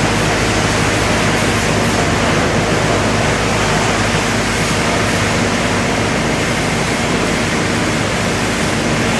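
Bobcat T550 tracked skid steer's diesel engine running at a steady speed, a loud even rush of engine and fan noise with a low hum under it and no change in pitch.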